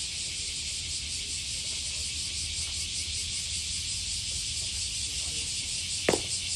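Steady cicada chorus, a dense high buzz with a fast pulsing texture. About six seconds in there is a single sharp crack.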